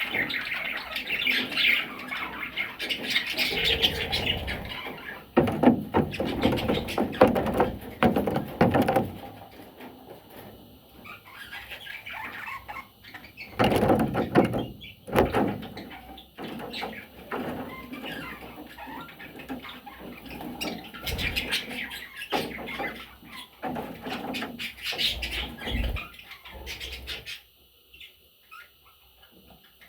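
Pet budgerigars chirping and chattering, with a few louder bursts of noise in between; the sound cuts off suddenly near the end.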